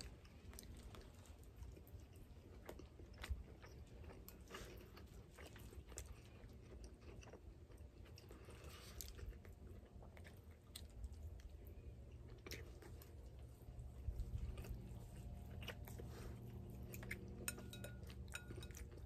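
A person chewing a mouthful of cauliflower fried rice with bacon bits, faint, with scattered small clicks.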